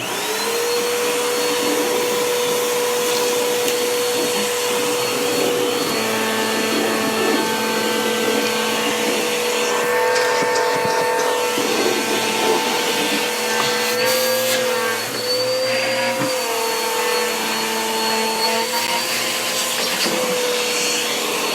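Vacuum cleaner switched on, its motor spinning up quickly to a steady whine and running on over a hiss of rushing air. The pitch wobbles briefly about two thirds of the way through.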